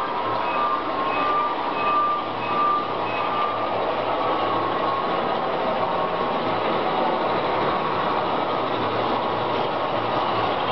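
A train running along the track with steady, continuous noise. For the first few seconds a short high tone repeats about twice a second.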